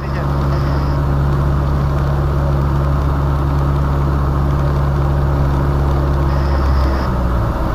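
Cessna 172's piston engine and propeller droning steadily, heard as a loud, even low drone, with the tone changing and growing uneven about seven seconds in.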